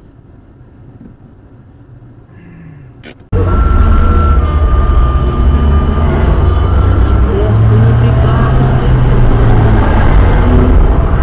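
Quiet low background noise, then about three seconds in a sudden change to loud, steady vehicle engine and road rumble with a deep drone, as recorded by a dashcam inside a moving vehicle.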